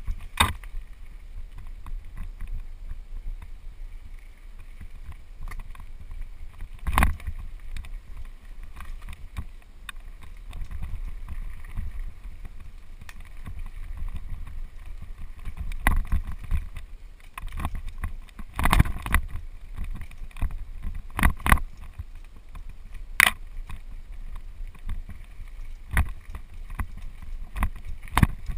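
Mountain bike descending a rough dirt trail, heard from a camera on the bike or rider: a steady low rumble of wind on the microphone and tyres on dirt, with sharp clanks and rattles as the bike hits bumps, several loud ones spread through the ride.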